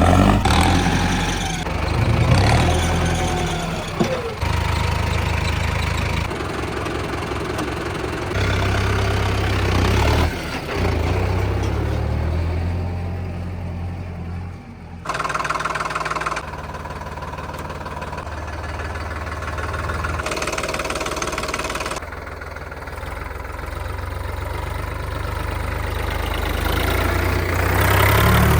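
Mahindra Arjun 605 tractor's diesel engine running under loader work. The engine note and level jump abruptly every few seconds.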